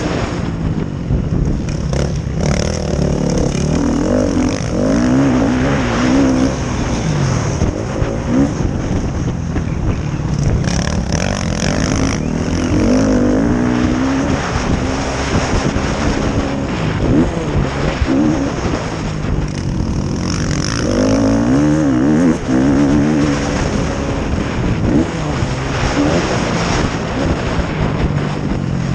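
Several motocross bikes racing on a dirt track, their engines revving up and falling back in pitch as riders accelerate, shift and pass, with several engines overlapping.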